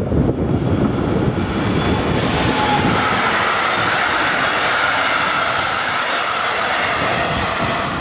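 Passenger train hauled by an electric locomotive passing close by: the rolling rumble and rattle of the wheels on the rails, brightening as the coaches go past, with a thin high-pitched whine in the second half.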